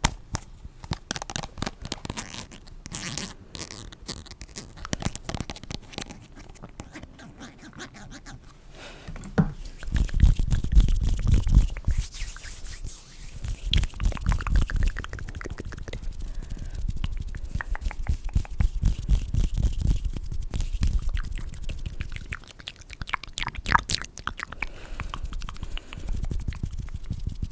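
Close-miked ASMR hand and mouth sounds: a run of small crackles and clicks, then, from about ten seconds in, heavier rubbing with a deep rumble under it.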